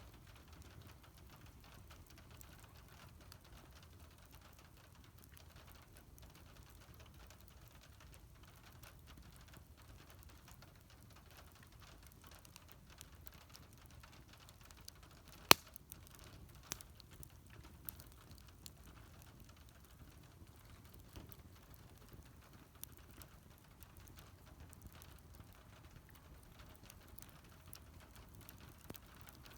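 Wood fire crackling softly with scattered small pops, and one sharp, loud pop about halfway through.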